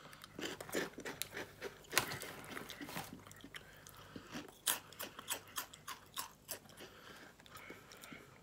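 A person crunching and chewing Slim Jim Fire Fries, small crisp chip-like snacks, with irregular sharp crunches. The loudest crunches come about two seconds and about five seconds in.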